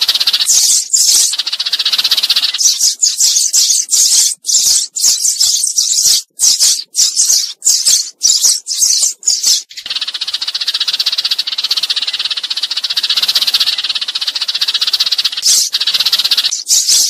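A flock of sparrows chirping and chattering loudly in quick, dense bursts, running together into one unbroken chatter from about ten seconds in for around six seconds. These are sparrow flock-calling sounds of the kind played as a decoy to draw sparrows to a trap.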